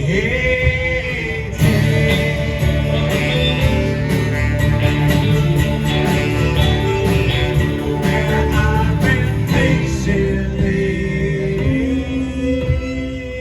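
Live band playing a song, guitar over a steady drum beat that kicks in about a second and a half in.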